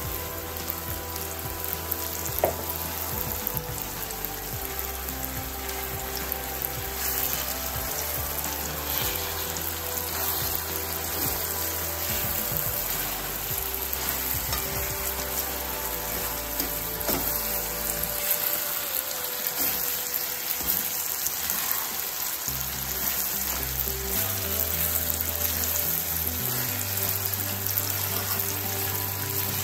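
Salt fish, onions and sweet peppers sizzling steadily as they fry in a frying pan, stirred and turned with a fork. A single sharp knock about two seconds in.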